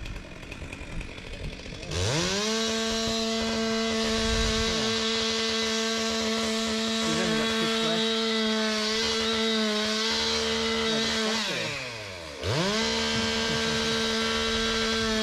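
Petrol chainsaw idling, then revved to full throttle about two seconds in and held steady while cutting wood, with small dips in pitch as the chain bites. It eases back briefly near the end, then revs up again. The chain is a bit blunt.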